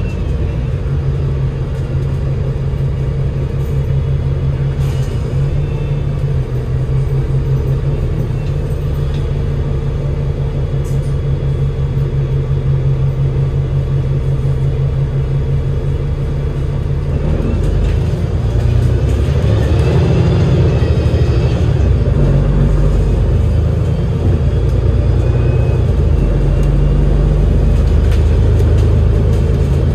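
Cummins L9 diesel engine of an Alexander Dennis Enviro500 MMC double-decker bus, driven through a Voith DIWA automatic gearbox, running under way with a steady low drone. About seventeen seconds in, the engine note changes and shifts in pitch, and the bus grows a little louder.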